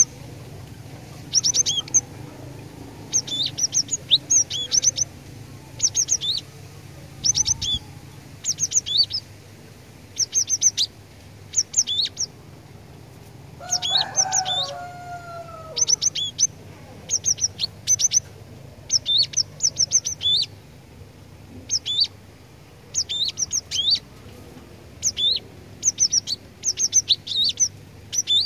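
Cinereous tit (glatik batu) singing: short bursts of rapid, high, sharp notes, repeated every second or two. About halfway through, a single lower gliding call from another bird.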